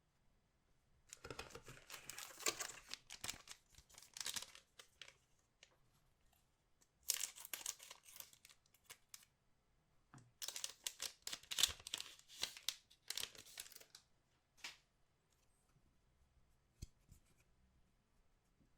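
Trading-card packaging being torn open and crinkled by hand: three spells of crackly tearing, each a few seconds long, then quiet near the end with a few faint ticks.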